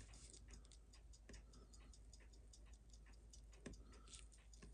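Faint, fast, even ticking of a Seiko 6105 automatic watch movement running on the bench, about six ticks a second.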